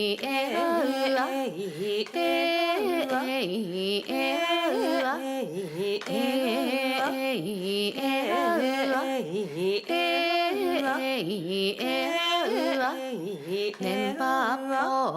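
A solo voice singing a slow melody with long, wavering held notes and many ornamental turns, with no clear accompaniment.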